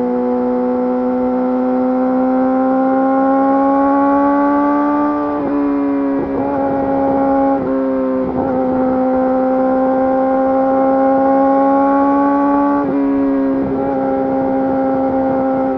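Yamaha YZF-R6's inline-four engine running through an Akrapovič full exhaust system while the bike is ridden: a steady note that climbs slowly in pitch, broken by a run of quick gear changes with brief dips in the note about five to eight seconds in, then another slow climb and more gear changes near the end.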